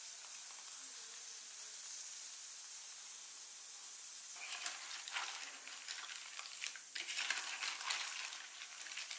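Hot oil and fried snails sizzling steadily as gravy is poured into the pot. About four seconds in, a metal spoon starts stirring, and the snail shells click and clatter against each other and the pot over the sizzle.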